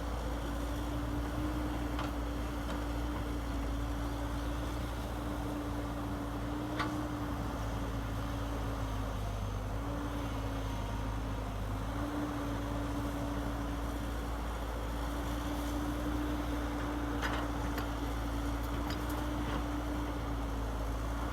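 Radio-controlled model truck's motor running with a steady hum. The pitch dips slightly twice near the middle, and there are a few faint clicks.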